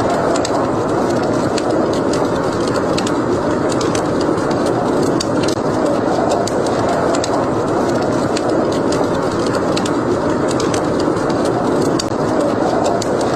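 Steady rushing wind of a snowstorm, with the irregular crackles and small pops of a burning wood fire in a fireplace over it.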